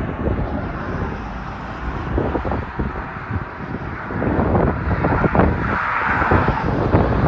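Outdoor wind buffeting the microphone over a steady rumble of passing highway traffic, growing a little louder about halfway through.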